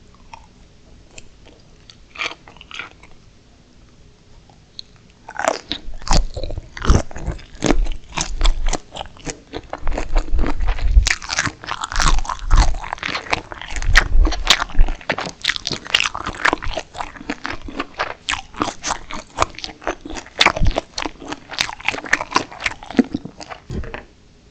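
Close-miked crunching and chewing of steamed shrimp, dense and loud, beginning about five seconds in after a few faint clicks and stopping abruptly near the end.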